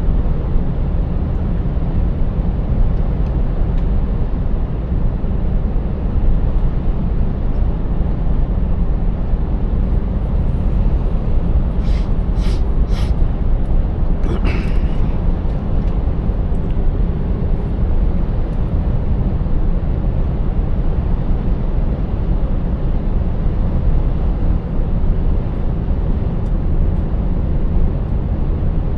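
Scania 590S truck's 16-litre V8 engine and tyres as the truck drives on, a steady low rumble. A few short sharp clicks and a brief hiss come about halfway through.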